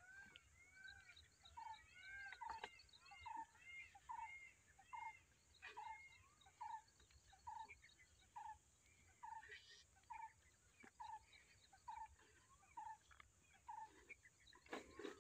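Faint birdsong: one bird repeating a short note about twice a second, with other birds chirping higher above it.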